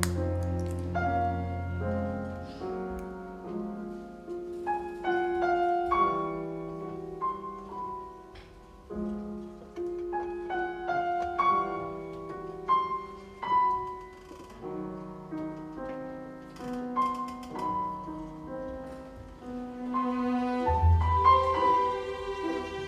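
Concert piano playing a solo passage of separate struck notes with a chamber string orchestra. Low strings hold a chord at the start and come back in near the end.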